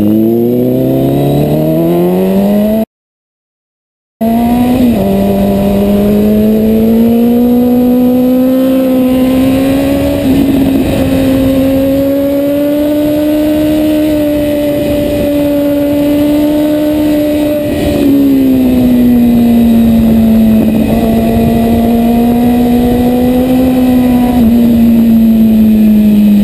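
Kawasaki ZX-10R inline-four engine heard from an onboard camera, revving up steeply over the first few seconds as the bike accelerates. A brief cut to silence follows, then the engine runs at a steady high note with small rises and falls, dipping about 18 seconds in.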